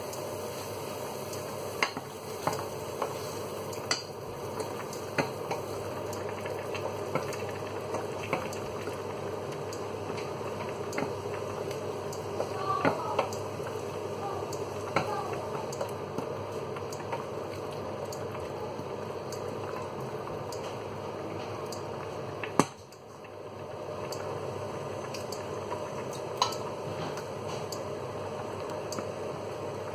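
Chopped tomatoes and garlic frying in olive oil in a stainless steel saucepan with a steady sizzle. A utensil scrapes and clicks against the pan now and then as they are stirred, with one sharper knock about three-quarters of the way through.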